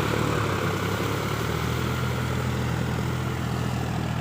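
Tractor engine running steadily while pulling a plough, a low, even drone.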